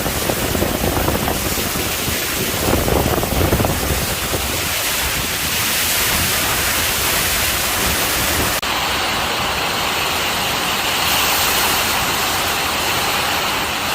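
Strong storm wind blowing hard, with low buffeting on the microphone in the first few seconds. A little past halfway the sound dips for an instant, then settles into a steady rushing hiss.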